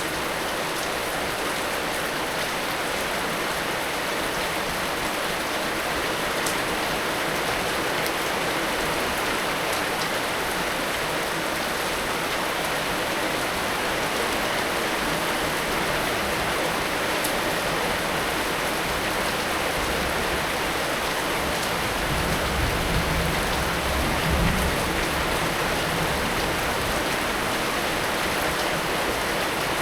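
Heavy rain falling steadily, an even dense hiss of drops on surfaces. A low rumble swells briefly about two-thirds of the way through.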